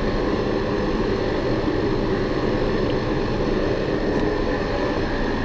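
Metal lathe running steadily while machining a warped vacuum compressor cover, with a constant hum and faint steady tones.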